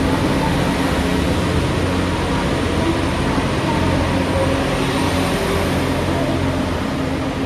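A train running steadily close by: a low droning hum under a broad rushing noise, easing slightly near the end.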